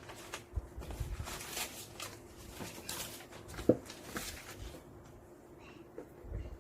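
Rustling and light knocks from something being handled, with one sharp knock about three and a half seconds in, under a faint steady hum.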